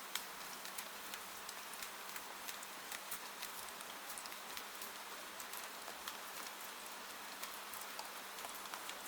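Steady rain: an even hiss with many separate drops ticking sharply on a surface at irregular intervals.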